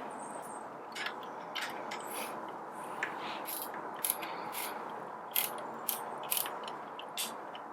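A 90-degree screwdriver working small screws out of metal parts: irregular sharp clicks and short scrapes, several a second.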